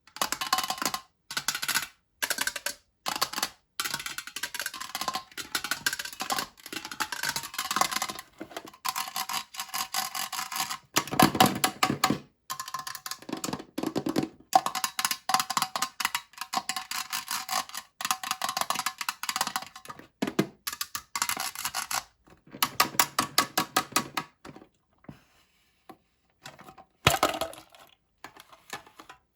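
Plastic candy-toy packaging being crinkled and unwrapped by hand, in long crackling runs with short pauses and a few sharper clicks and taps, thinning to scattered clicks near the end.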